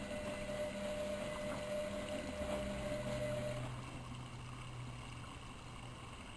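Miele Novotronic front-loading washing machine running a boil-wash cycle: the motor turns the drum with a steady hum and a higher whine, and water sloshes. The whine cuts off a little over halfway through as the drum stops turning.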